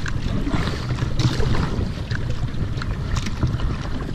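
Wind rumbling on a GoPro microphone while a kayak is paddled, with a few brief light knocks.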